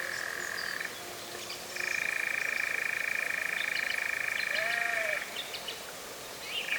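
European nightjar churring: a long, fast, even trill that breaks off about a second in, resumes, stops again about five seconds in and restarts just before the end. A short, faint rising-and-falling note sounds just before the second stop.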